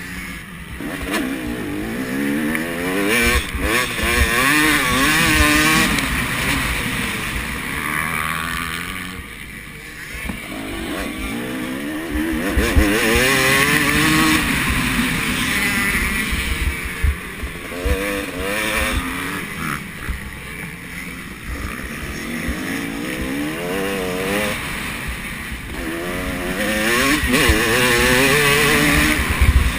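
Motocross bikes racing, their engines revving up and down over and over as riders accelerate and shift, loudest in several waves as bikes pass. Wind buffets the microphone.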